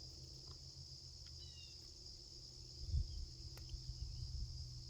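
Steady, high-pitched chorus of insects, with a few faint short bird chirps and a low thump about three seconds in.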